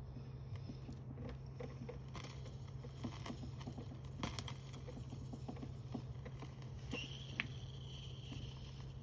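Small wood fire crackling with scattered light pops and a few sharper snaps, over a steady low hum. A thin hiss sets in about seven seconds in.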